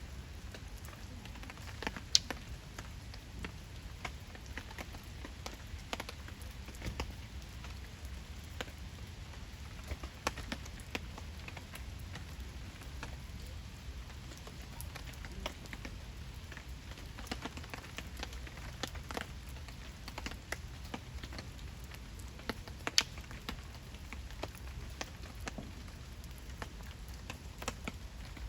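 Wood campfire crackling, with irregular small pops and two sharper snaps, about two seconds in and near 23 seconds, over a steady low rumble of the flames.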